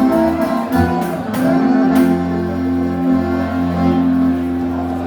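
Live gaúcho dance-band music in an instrumental passage: accordion with guitar playing held chords, with sharp percussive strokes through the first two seconds.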